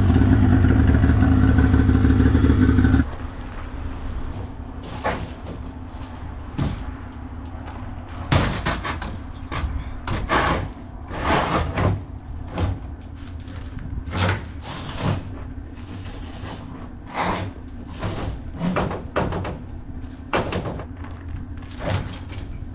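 A diesel truck engine running loud and steady, then an abrupt drop about three seconds in to a quieter steady low hum broken by irregular knocks, clunks and clatter.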